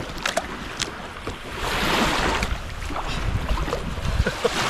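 Lake water washing and lapping around a kayak, swelling and easing, with wind rumbling on the microphone and a few small clicks and knocks.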